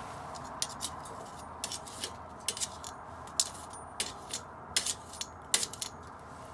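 Wood bonfire crackling: irregular sharp pops and snaps, about fifteen in a few seconds, over a steady low hiss.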